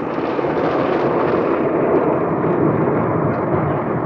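Automatic tunnel car wash heard from inside the car: cloth scrubbing brushes and water working over the body and windows, a steady dense noise that does not let up.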